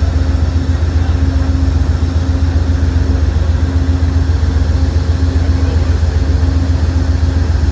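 Amtrak diesel passenger locomotive idling, a steady low hum with an even tone above it that does not change.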